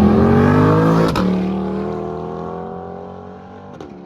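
Car engine accelerating hard away, its pitch climbing, then dropping sharply at an upshift about a second in. It climbs again through the next gear as it fades into the distance, with another shift near the end.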